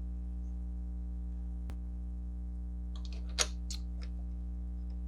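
Steady low electrical hum. A single click comes about a second and a half in, then a short cluster of light metallic clicks and clinks around three to four seconds in as water pump parts are handled.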